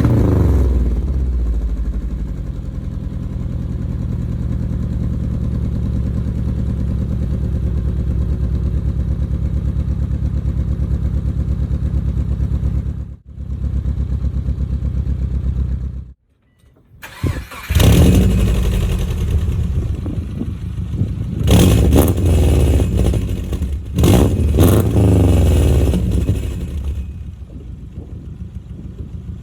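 2004 Subaru Forester 2.5X's 2.5-litre flat-four running through newly fitted unequal-length Tsudo headers, track pipe and catback exhaust. It comes down off a rev to a steady idle, drops out briefly twice, then takes several quick throttle blips and settles to a quieter idle near the end.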